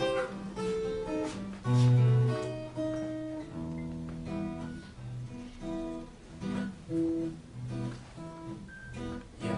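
Acoustic guitar playing the song's instrumental introduction, a mix of picked notes and strummed chords.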